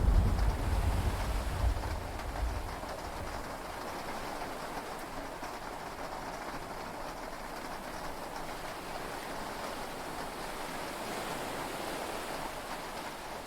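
A deep rumble of thunder dying away over the first few seconds, leaving steady rain and sea-wave noise heard from inside a yacht cabin.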